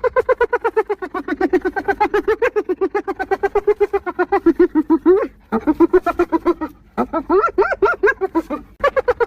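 Spotted hyena giggling: rapid pitched pulses, about ten a second, in several bouts. A long bout of about five seconds is followed by shorter ones with brief breaks between them, each bout starting a little higher and settling lower.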